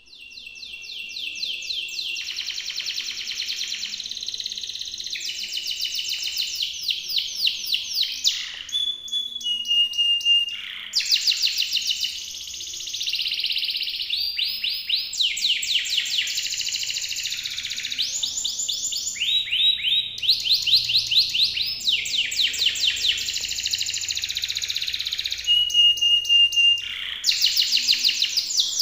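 Local canary singing a strong, long-running song of fast repeated trills with hardly a pause. A few clear, steady whistled notes are mixed in.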